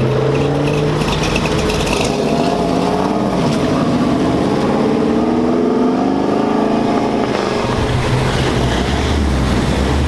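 Car engine running under way, its note rising and falling in pitch as the car speeds up and slows.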